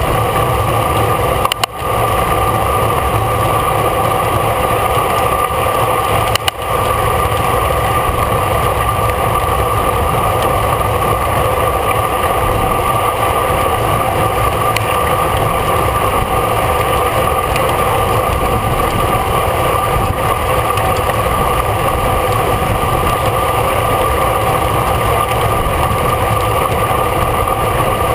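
Steady wind rush and road noise on a bike-mounted camera at racing speed, with a constant whine on top. The sound drops out briefly twice in the first seven seconds.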